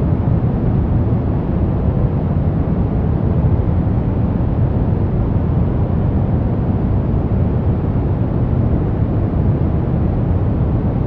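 Steady generated noise played as a relaxation and sleep sound: an even, unbroken rushing hiss, weighted towards the deep end with little treble, that never changes.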